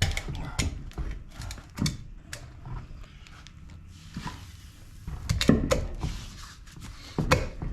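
Irregular metallic clicks, clanks and knocks of hand tools and parts being handled, with louder knocks about five and a half and seven and a half seconds in.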